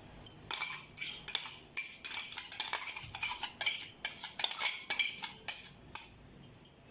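A metal spoon repeatedly clinking and scraping against a metal vessel: the blended banana-and-sugar paste being scooped in and worked into the sweet bonda batter. The quick, irregular clinks start about half a second in and stop about a second before the end.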